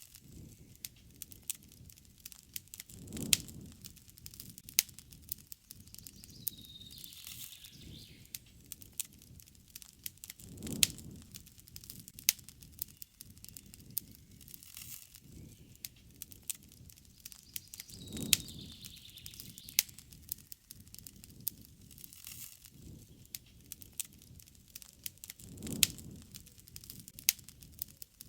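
Wood campfire crackling, with frequent sharp pops and a low rushing swell about every seven and a half seconds. A short falling bird call comes twice, once about six seconds in and again near the middle.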